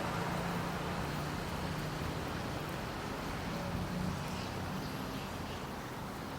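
Outdoor street ambience: a steady hum of traffic with an even background noise.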